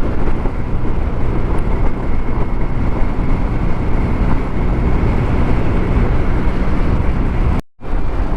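Riding noise from a moving TVS Scooty scooter: wind rushing over the rider's microphone with the small engine's steady drone beneath. The sound cuts out for an instant near the end.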